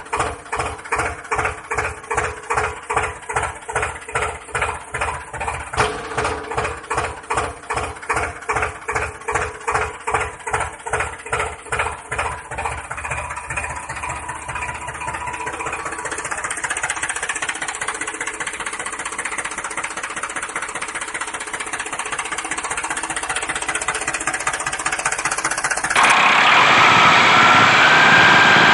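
An engine chugging in even beats, about two or three a second, that gradually blur into a steadier run. Near the end it cuts abruptly to a louder, brighter engine sound with a high whine.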